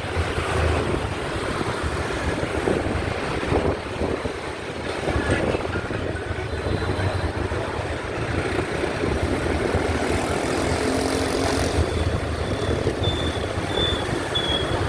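Motorbike riding along a road: a steady low engine hum mixed with wind and road noise.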